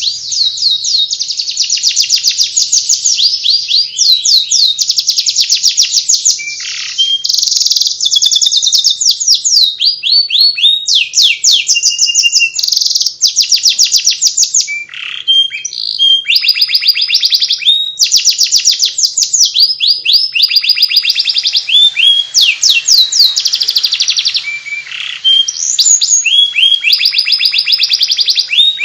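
Domestic canary singing continuously in fast, rapid-fire trills and chirp runs (the 'ngeriwik' style of canary song), with only brief pauses.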